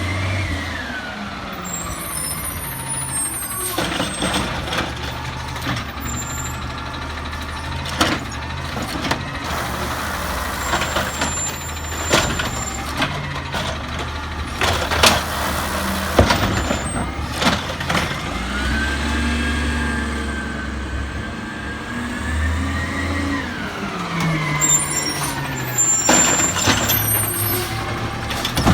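Peterbilt 320 trash truck at work: its diesel engine revs up, holds and falls back several times, with several sharp bangs and air-brake hiss.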